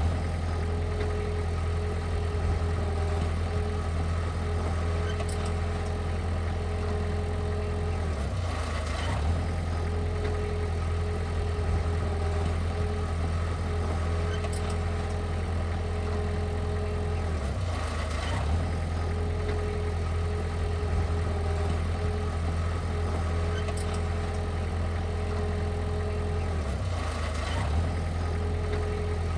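Heavy diesel engine of earth-moving equipment running steadily at a low drone, with brief breaks about every nine seconds.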